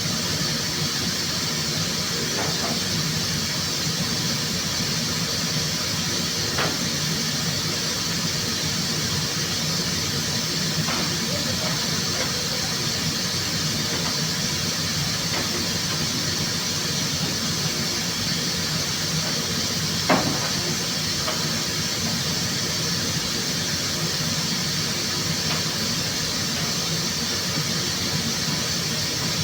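Steady, unbroken hiss of rushing air, with a few brief clicks, the loudest about twenty seconds in.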